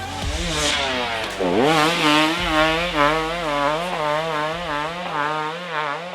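Dirt bike engine running hard: it dips and climbs in pitch about a second and a half in, then holds high revs that waver up and down about three times a second.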